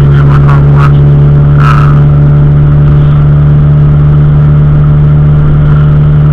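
Steady, very loud low drone of a car running, heard from inside the car, with a few short sharp sounds in the first two seconds.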